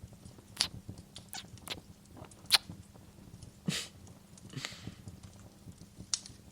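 Close-miked kisses and lip smacks: a series of short, irregular wet smacks, the sharpest about two and a half seconds in, with a couple of longer breathy kisses about a second apart in the middle.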